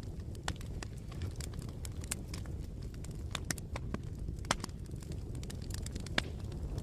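Wood fire crackling, with irregular sharp pops and snaps over a steady low rumble of the flames; two louder pops stand out, one a little past the middle and one near the end.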